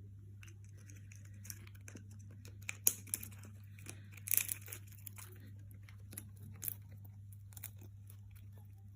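A parrot chewing and tearing at something with its beak: scattered crinkling, crunching clicks, the sharpest cracks about three seconds in and a cluster near four and a half seconds, over a steady low hum.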